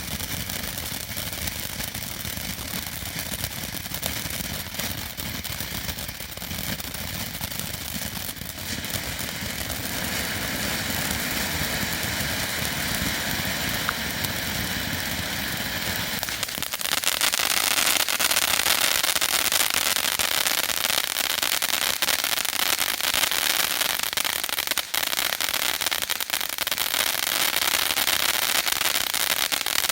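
Dominator 'Hot Lips' firework fountain burning with a steady rushing hiss and rumble, then a little over halfway through it breaks into a louder, dense crackle that carries on.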